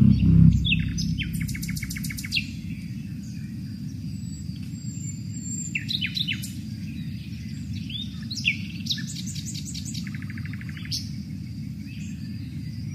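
Songbirds calling and singing: short high chirps and several fast trills of about ten notes a second, over a steady low background rumble.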